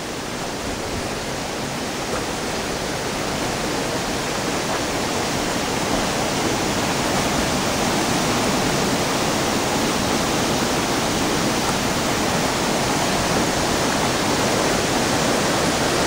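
Waterfall rushing: a steady roar of falling water, gradually louder.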